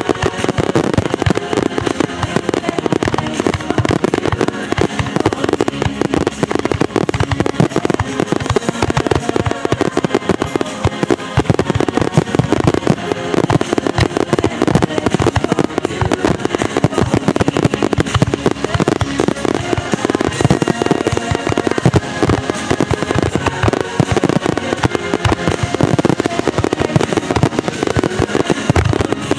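Dense, unbroken barrage of aerial firework shells bursting and crackling, a star-mine finale with bangs following each other too fast to separate. Music plays underneath.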